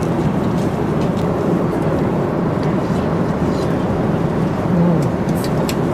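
Steady cabin noise of a jet airliner in flight: an even, low whooshing drone, with a few light clicks near the end.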